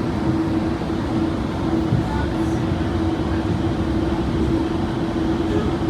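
Tri-Rail diesel commuter train running, a steady rumble with a constant droning hum.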